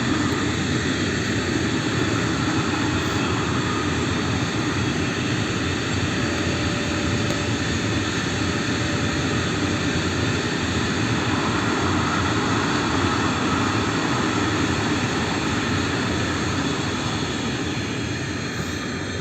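A train passing: a steady, dense rumble and rush that fades near the end as it goes away.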